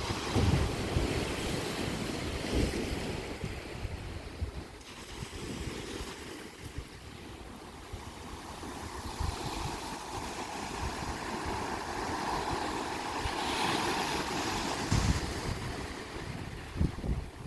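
Sea waves washing against a rocky shore, swelling and easing, with gusts of wind buffeting the microphone.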